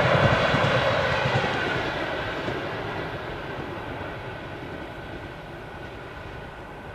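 A train on electrified main line passing and moving away, its wheel and rail noise fading steadily.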